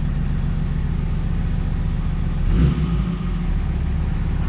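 Dodge Cummins turbo diesel engine idling steadily, with a brief louder burst about two and a half seconds in.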